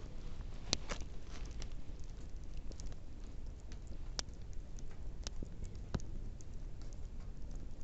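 Wood fire crackling: irregular small snaps and a few sharper pops over a low steady rumble.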